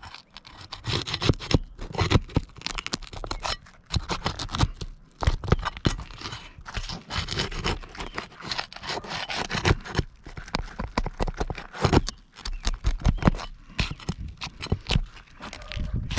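Roof shingles being pried up and their nails worked loose: irregular scraping, crunching and tearing with many sharp clicks.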